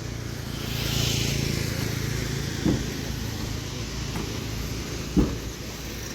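Road traffic: a vehicle's engine hum and tyre hiss swelling and fading as it passes about a second in, with two short thumps later.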